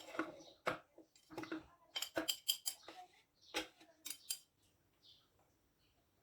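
Kitchen utensils and dishes clinking and knocking in a quick run of sharp clicks that dies down after about four and a half seconds.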